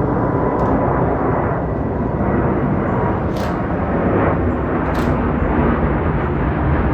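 Boeing 787-9 Dreamliner jet engines running, a loud, steady jet noise heavy in the low end, with a few faint high clicks.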